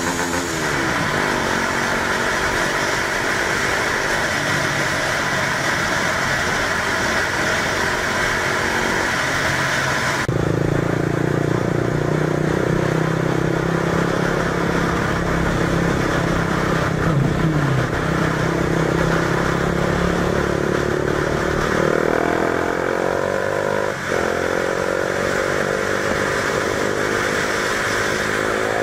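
Honda CBR 250 R motorcycle engine running under way, with wind and road noise. The wind hiss drops off abruptly about ten seconds in, and in the last several seconds the engine note rises repeatedly as the bike accelerates.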